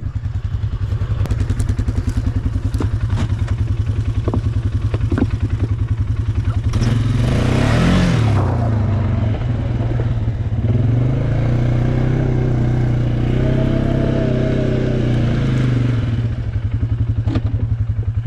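ATV engine idling with a steady pulse, revved briefly about seven seconds in, then held at a higher speed for several seconds before dropping back to idle. A few clicks and knocks over the top.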